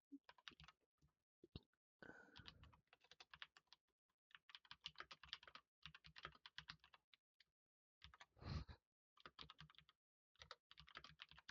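Faint typing on a computer keyboard, in quick runs of keystrokes broken by short pauses, with one louder soft thump about three-quarters of the way through.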